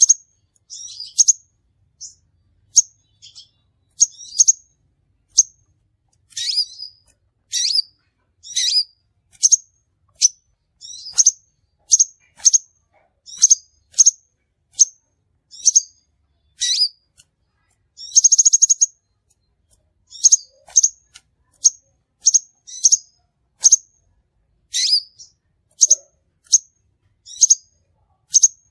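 Crimson sunbird calling: a steady series of short, high, sharp chirps, roughly two a second, with one brief buzzy trill about two-thirds of the way through.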